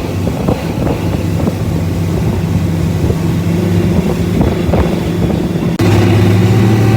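Motorboat engine running steadily under way, with wind buffeting the microphone. The sound changes abruptly about six seconds in, and the engine's low note becomes stronger.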